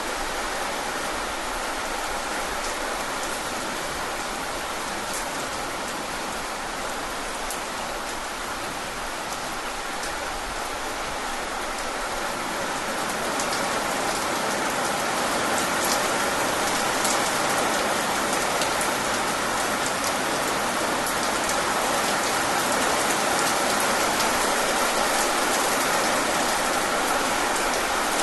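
Steady rain falling, with individual drops ticking against a surface. The rain gets louder about halfway through.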